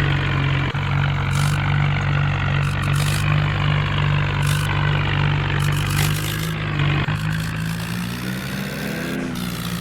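Heavy diesel engine running steadily at an even speed, easing off slightly about seven seconds in and picking up again near the end.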